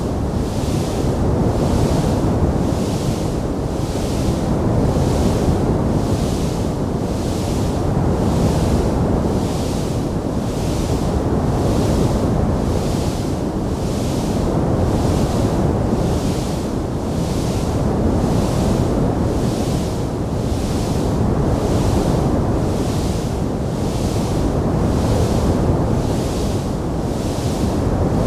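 Fire burning in a fireplace: a steady rushing noise without distinct crackles, with a soft hiss that pulses evenly about once a second and a level that swells and ebbs every few seconds.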